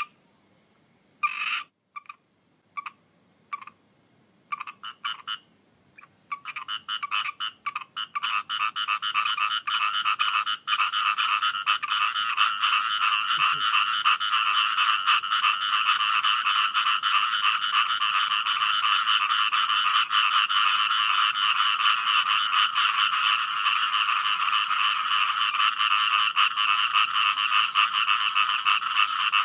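Frogs calling: a few separate croaks at first, then from about six seconds in a dense chorus of rapid, pulsing calls that builds and carries on steadily.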